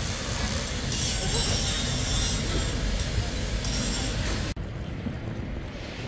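Railway station noise with a train running: a steady rumble with hiss. It cuts off abruptly about four and a half seconds in, and quieter background follows.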